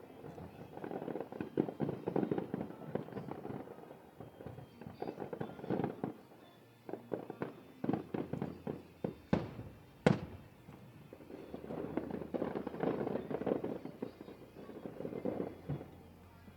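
Aerial fireworks bursting overhead: clusters of crackling and popping shells, with two sharp, loud bangs about nine and ten seconds in.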